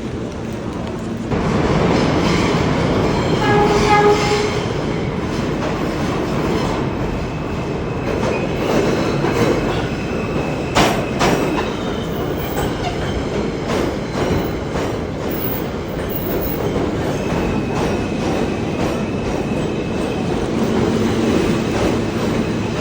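New York City subway train running on the track, heard from inside the car: a dense rumble of wheels on rails that grows louder about a second in. A brief pitched tone sounds about four seconds in, and sharp clacks of wheels over rail joints come near the middle.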